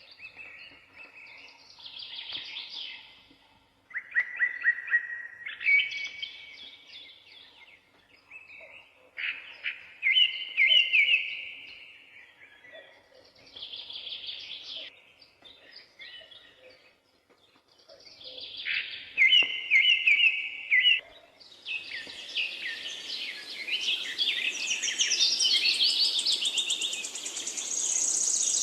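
A songbird singing short trilled phrases, one every three or four seconds. About three-quarters of the way through, denser and higher song starts over a steady hiss.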